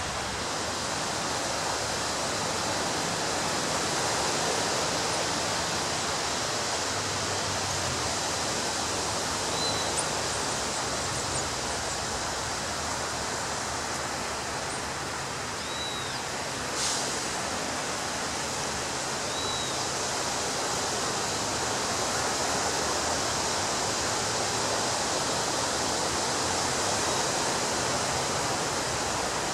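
Steady rush of ocean surf breaking on a beach, with a few faint, brief high chirps and one short sharp tick about halfway through.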